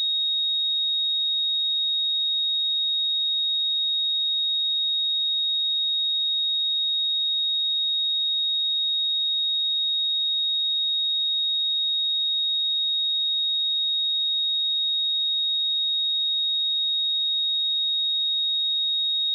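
A single steady sine-wave test tone at 3753 Hz, a constant high-pitched pure tone at an even level throughout.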